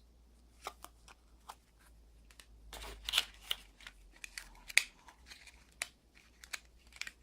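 Phone box packaging being handled: scattered small clicks and brief rustles of cardboard and plastic, busiest around the middle.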